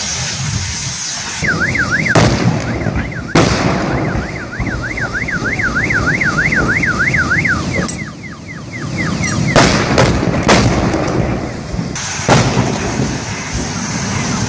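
A car alarm warbling, rising and falling about three to four times a second for most of the first ten seconds, over the continuous noise of a burning vehicle. Several sharp bangs from the burning wreck break in, two in the first few seconds and a cluster about two-thirds of the way through.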